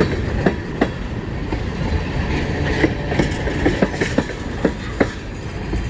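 Freight train's cars rolling slowly past, a steady low rumble with irregular sharp clacks of wheels over rail joints.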